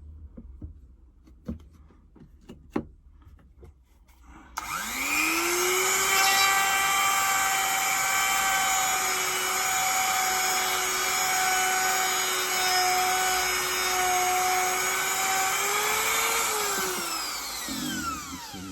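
A couple of light knocks, then an electric polishing machine's motor spins up about four and a half seconds in, runs with a steady whine while a coin ring is polished on it, and winds down with a falling pitch near the end.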